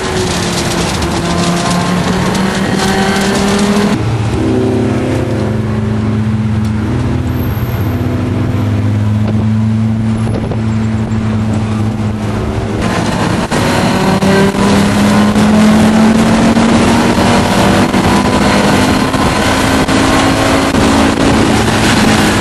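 Audi race car's engine heard from inside the cabin at speed, with road and wind noise. About four seconds in it eases to a lower, quieter hum as the driver comes off the throttle. Around thirteen seconds in it picks up again and climbs slowly in pitch under acceleration.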